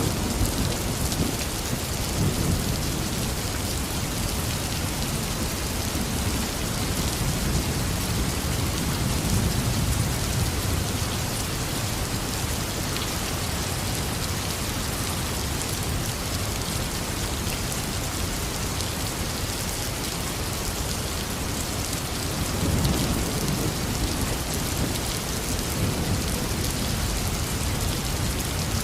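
Heavy rain falling steadily, with low rolls of thunder rumbling in a few times: near the start, about a third of the way in, and again near the end.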